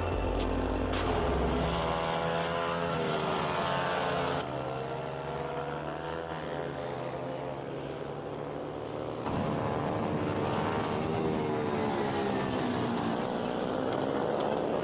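Small racing motorcycle engines on track, revving up and falling back as the mini bikes accelerate and brake through corners. The sound changes abruptly twice, about four and nine seconds in.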